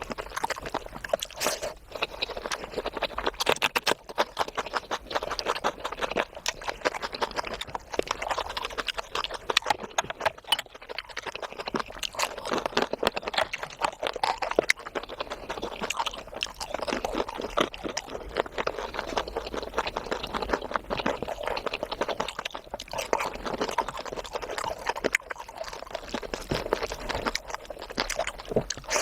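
Close-up eating sounds: wet chewing and lip-smacking of curry with rice and puri, a dense run of small irregular clicks and squelches.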